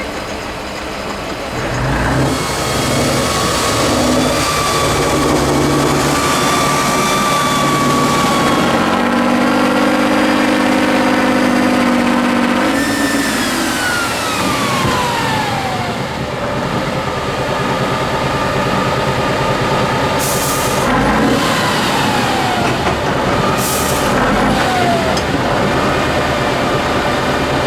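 A heavy off-road truck engine revving up and down under load, with a high whine that falls in pitch twice as the revs drop. Two short air hisses come about two-thirds of the way through.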